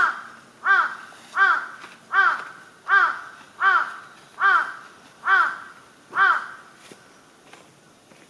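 A crow cawing: a regular series of about nine harsh caws, roughly one every three-quarters of a second, each rising and then falling in pitch, stopping about six seconds in.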